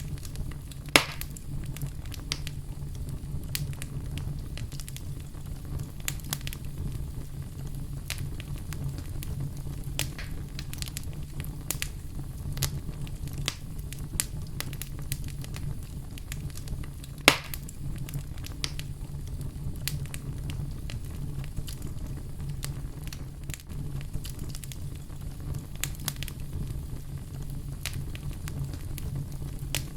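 Fireplace fire crackling, with many small cracks over a steady low rumble of flames and two sharp loud pops, one about a second in and one about halfway through.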